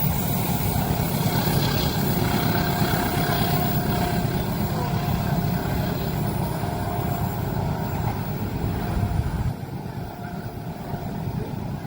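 Train passing with a steady low rumble that drops off suddenly about nine and a half seconds in.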